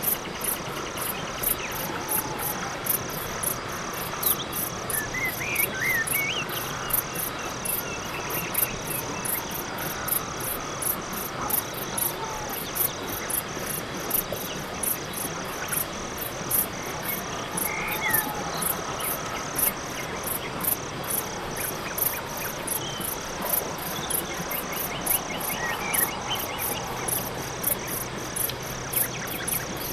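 Night-time crickets chirping in a steady rhythm, about two pulses a second, over a constant insect drone, with a few faint short calls from other animals now and then.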